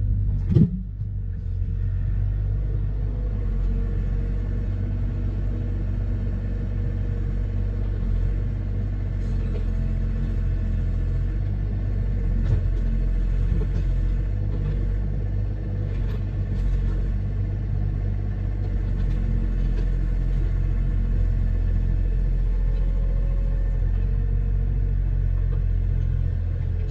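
An engine idling steadily: a low, even rumble with a few faint knocks over it.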